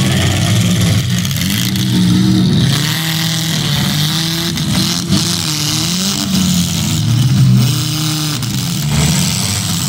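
Several demolition derby cars' engines revving at once, their pitches rising and falling independently, with a few sharp knocks now and then.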